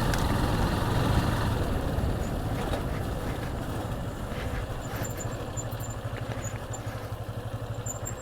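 Motorcycle engine running at low revs, its steady pulsing sound slowly getting quieter.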